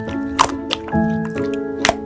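Gentle background music with sustained notes, over the wet clicks and squishes of slime being pressed and stretched; several sharp pops stand out, about half a second in and again near the end.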